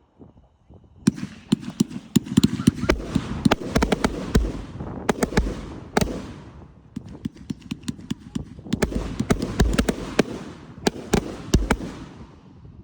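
Aerial fireworks going off: about a second in, dense rapid crackling pops start in several surges over deep booms, then fade out near the end.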